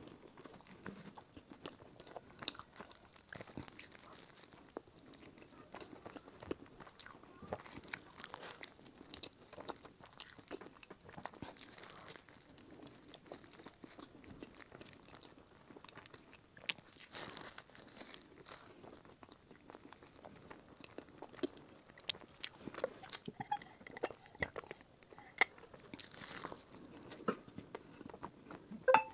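Close-miked chewing and biting of a soft green pastry: irregular wet mouth clicks and crackles, with a few sharper clicks near the end.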